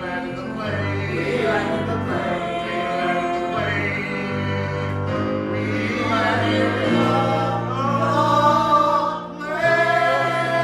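Several voices singing together in harmony over instrumental accompaniment: a musical-theatre song number.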